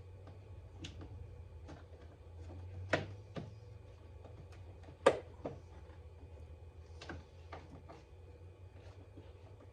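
Scattered clicks and knocks of car parts and trim being handled and fitted during reassembly of the front end, with two louder knocks about three and five seconds in, over a steady low hum.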